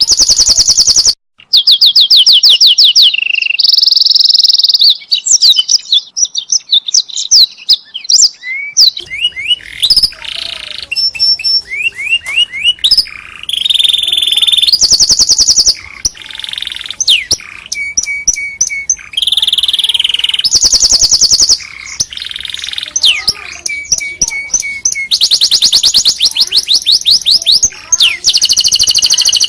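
Domestic canary singing: long, fast trills of rapidly repeated high notes alternating with rolling phrases and short pauses, with a brief break about a second in.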